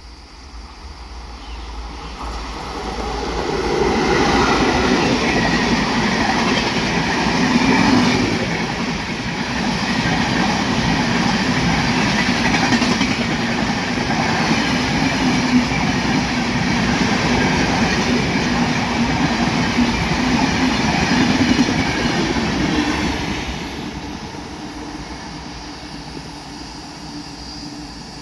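Indian Railways passenger train passing at speed, its coach wheels clattering steadily over the rails. It builds up over the first few seconds, runs steady for about twenty seconds as the coaches go by, and fades away near the end.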